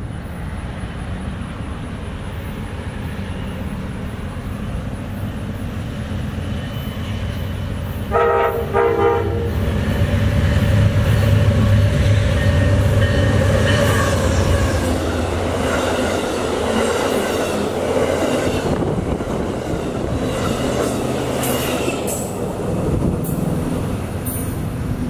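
Amtrak passenger train coming through a station. A short horn blast sounds about a third of the way in, followed by the train's rumble and wheel clatter growing louder as it passes.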